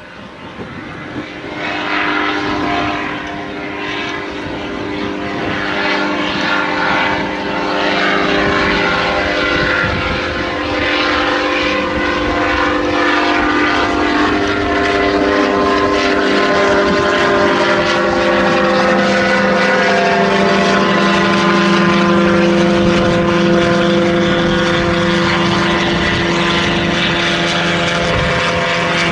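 Autogyro's engine and propeller running at high power, a steady drone that comes up loudly about a second and a half in and holds, its pitch shifting slightly. Wind buffets the microphone.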